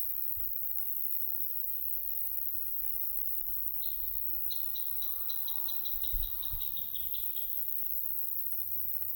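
A small bird sings a fast trill of short, high notes for about three and a half seconds in the middle, speeding up slightly toward its end, with a brief few notes again near the end. Light wind rumbles on the microphone throughout, with one sharp buffet about six seconds in.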